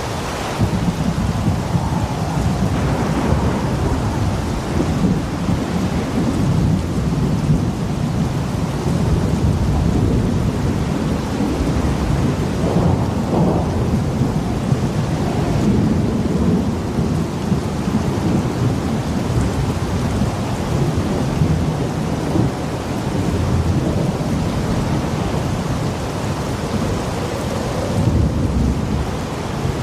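Hurricane storm: heavy rain and wind with a continuous deep rumble that swells and ebbs.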